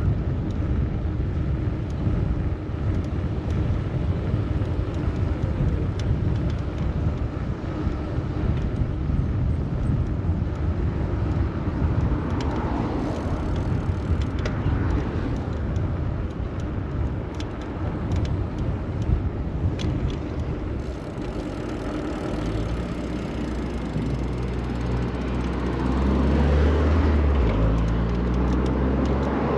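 City road traffic heard while cycling, a steady low rumble of passing cars and buses. Late on, a motor vehicle's engine close by grows louder, its pitch changing in steps.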